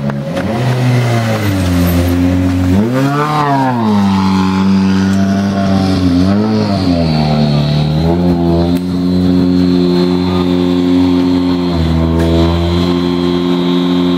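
World Rally Car's 1.6-litre turbocharged four-cylinder engine running loud, its pitch rising and dropping several times with the throttle, then held steady for several seconds.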